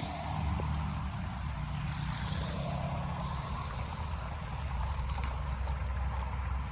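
Steady rush of flowing water with a low rumble underneath and a few faint clicks, as from water draining through a cleared blockage.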